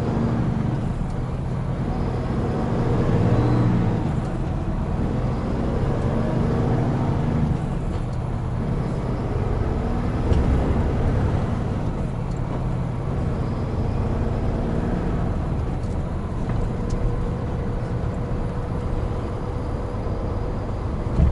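Hino Profia heavy truck's diesel engine running steadily under way with road and tyre noise, its engine note rising and falling a few times.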